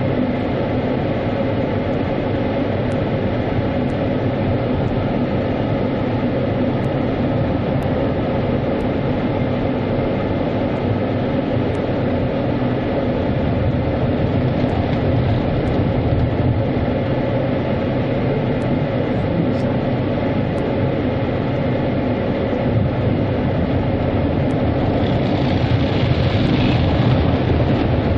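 Automatic car wash running: water spray and wash machinery beating on the car, heard from inside the car as a steady, loud rumbling wash. A brighter hiss swells up for a couple of seconds near the end.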